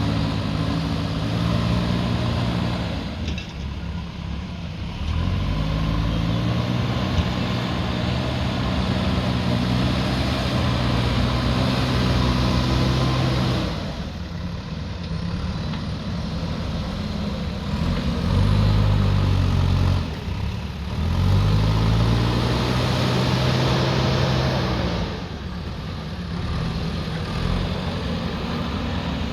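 Diesel engine of a heavy earthmoving machine working, its revs dropping and climbing again several times as it takes and sheds load.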